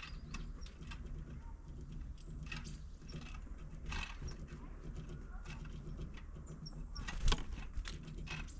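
A bird pecking and tapping at seed on a window feeder: irregular light clicks, with one louder knock about seven seconds in.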